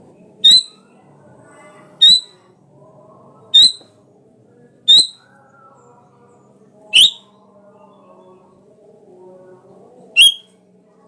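Sooty-headed bulbul giving a short, sharp high call six times, every one to three seconds, each note sweeping quickly in pitch. A faint low murmur runs beneath the calls.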